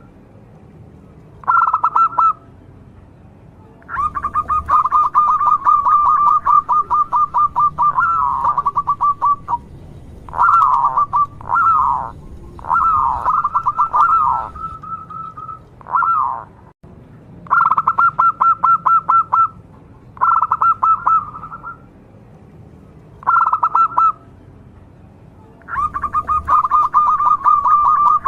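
Zebra dove (perkutut) singing: repeated phrases of rapid short cooing notes, some ending in falling notes, with short pauses between phrases.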